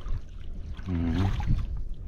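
Sea water washing and lapping at the shore over a steady low rumble of wind on the microphone, with a brief voiced sound from a person about a second in.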